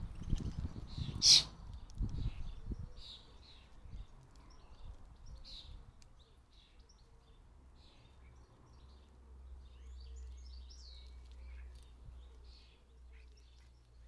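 Small garden birds chirping in short, scattered calls, with a few low knocks and rustles in the first three seconds, the loudest a sharp click about a second in. A faint low rumble runs underneath in the second half.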